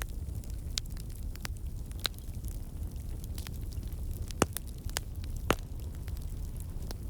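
Fireplace fire crackling: irregular sharp pops and snaps over a steady low rumble, with two louder pops about four and a half and five and a half seconds in.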